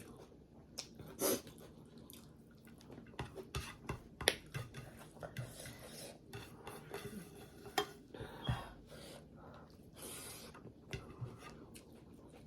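Cutlery and a plate clinking and scraping in irregular short knocks during a meal of rice.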